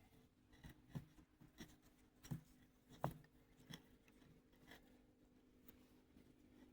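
Faint clicks and light knocks of small metal baler knotter parts being handled, about five over the first few seconds, over a faint steady hum.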